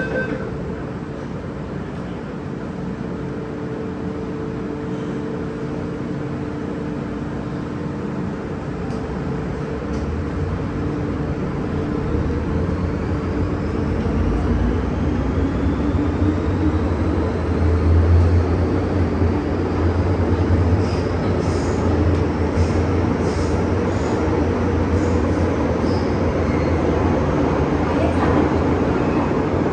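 MTR M-Train electric multiple unit pulling away from a station and accelerating. A low rumble of wheels on rail builds up, and a faint motor whine rises steadily in pitch as the speed increases.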